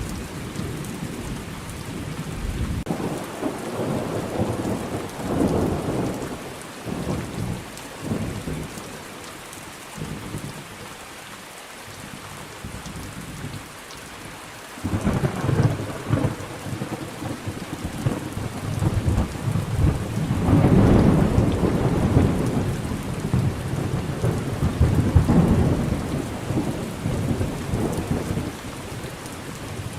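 Thunderstorm: steady heavy rain with rolling thunder that rumbles in waves, quieter for a few seconds in the middle and then swelling into a long loud roll in the second half.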